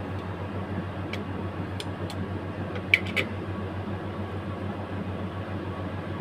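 Steady low mechanical hum with a few light clicks and taps, the sharpest about three seconds in.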